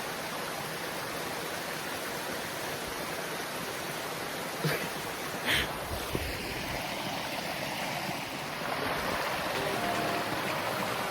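Steady rush of flowing creek water, growing a little louder about eight and a half seconds in, with a few brief knocks near the middle.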